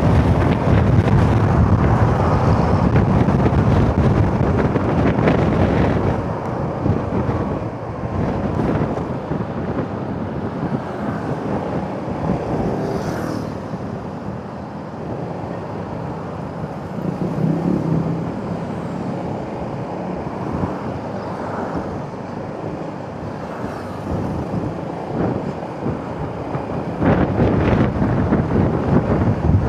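Wind buffeting the microphone of a rider on a moving Yamaha XMAX scooter, mixed with road and engine noise. It is loudest for the first six seconds, eases off through the middle, and grows louder again near the end.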